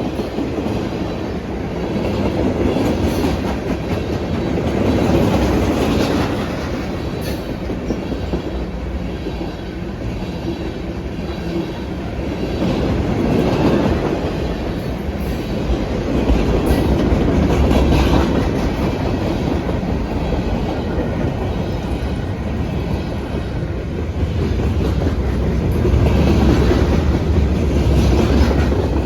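Freight train cars rolling past on the track, the wheels clicking over the rail joints. The sound is steady and loud and swells and eases every few seconds.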